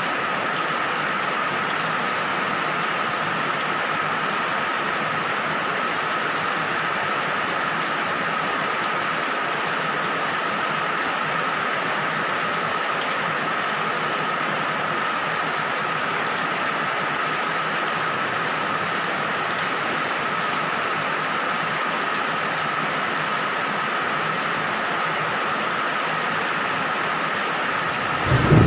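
Steady rain falling, an even unbroken hiss. Near the end a low rumble of thunder begins.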